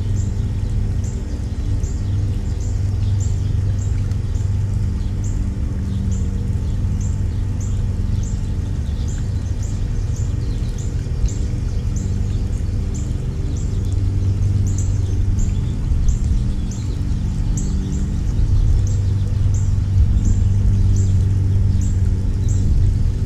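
A small songbird giving short, high, falling chirps over and over, about two a second, over a steady low hum.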